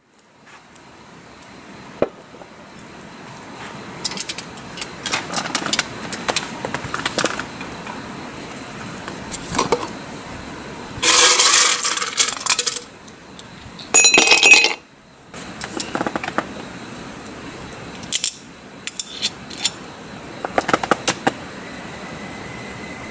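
Scattered clinks and knocks of metal camp cookware and utensils being handled, over a steady outdoor background hiss, with two louder noisy bursts of a second or more in the middle.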